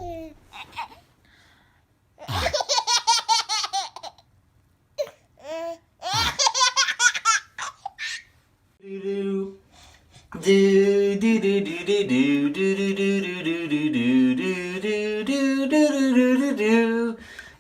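A baby laughing in two bursts of quick, repeated belly laughs, followed in the second half by a long stretch of a pitched tune of changing notes.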